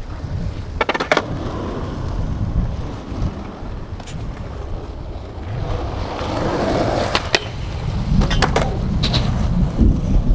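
Skateboard wheels rolling on concrete, with sharp wooden clacks of the board about a second in and several more in quick succession near the end. Strong wind buffets the microphone throughout.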